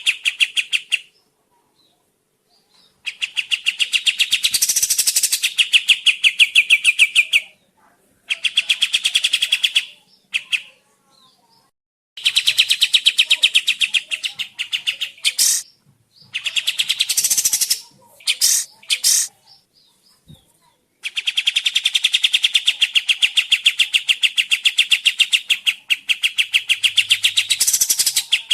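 Burung kapas tembak song: rapid runs of sharp, evenly repeated chirping notes, about ten a second, in bouts of a few seconds broken by short pauses. It is a lure recording meant to set other birds of its kind calling.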